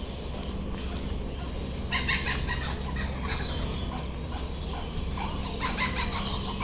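Birds calling in short, choppy bursts, one about two seconds in and another near the end, over a steady low background hum.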